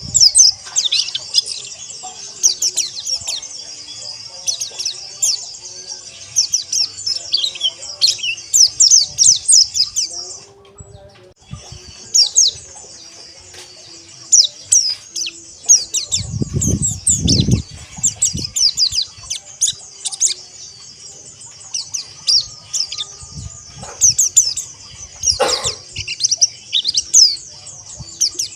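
A flock of white-eyes (pleci) chirping and twittering together in a dense, rapid chorus of high notes, with a short pause about a third of the way in. A low rumble lasts about two seconds around the middle.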